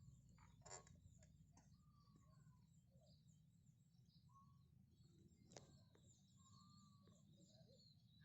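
Near silence, with faint birds chirping and calling now and then and a couple of soft clicks.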